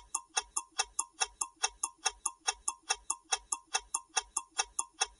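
Quiz countdown timer sound effect: an evenly spaced clock tick, about four ticks a second.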